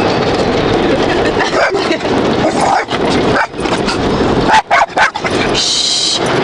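Automatic car wash spraying and scrubbing against the car, a dense steady wash of noise heard from inside the cabin, with a dog in the car barking over it.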